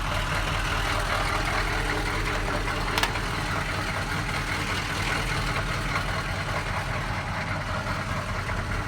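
1984 K10 pickup's 6.2-litre diesel V8 idling steadily at a low idle, with one sharp tick about three seconds in.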